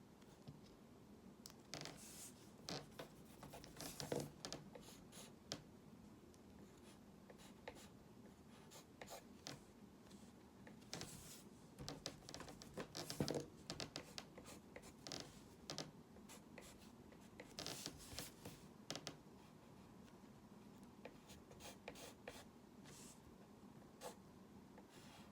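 Faint scratching of a drawing tool on paper: short, irregular strokes in bursts, with brief pauses between them.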